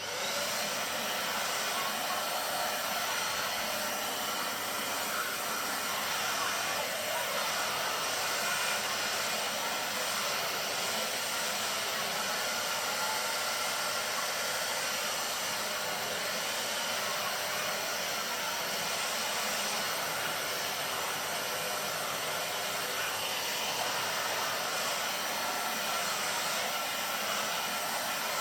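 Vacuum cleaner switched on and running steadily with a loud, even hiss.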